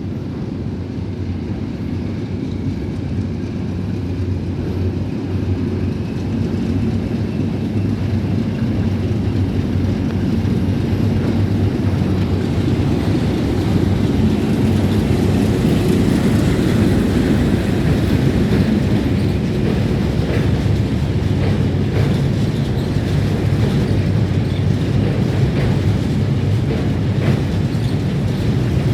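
D12E diesel-electric locomotive running under load as it hauls a train, a steady low engine drone that grows gradually louder as it approaches, with wheel clicks on the rails in the second half.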